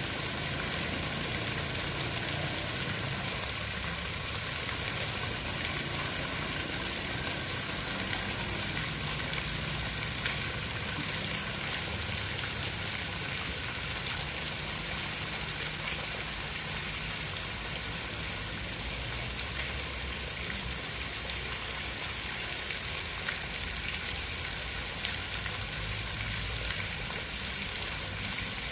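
Steady rushing water: an even, unbroken hiss with a low rumble beneath it.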